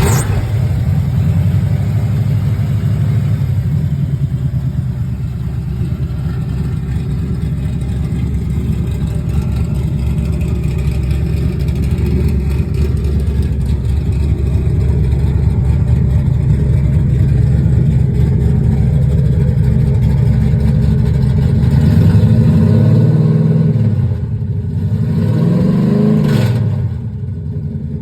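1967 Plymouth Barracuda engine running steadily just after a cold start, then revved twice in quick succession near the end, each time rising and falling back, before settling to a quieter idle.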